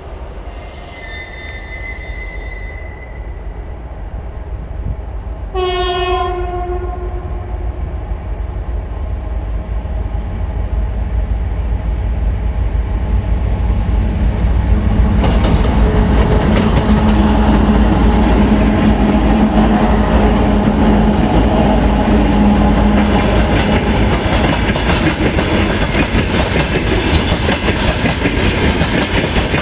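Approaching diesel locomotive sounding its horn twice, first a short high note, then a lower, fuller note, each about two seconds long. The train then draws near and passes loudly, engine drone steady and wheels clicking over the rail joints.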